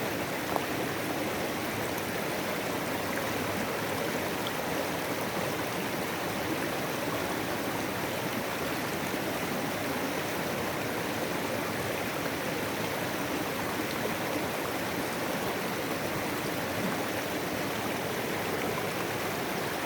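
A mountain stream flowing, a steady rush of running water.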